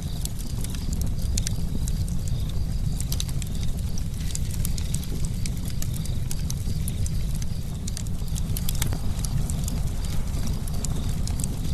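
Campfire crackling, with many sharp irregular pops and snaps over a steady low rumble.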